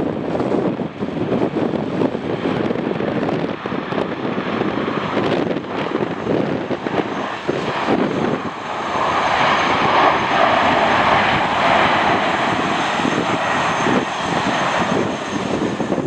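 Passenger aircraft's engines growing louder about halfway through and fading near the end, over heavy wind buffeting the microphone.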